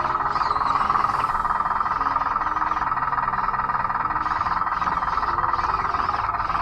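Electric drive motors and gearboxes of a converted Bruder D5 RC bulldozer running steadily, with small shifts in pitch as the motor speed changes.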